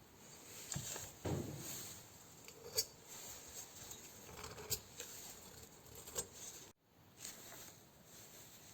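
Irregular small knocks, clicks and short scrapes of hand work with metal parts and tools, with sharp clinks about three and five seconds in.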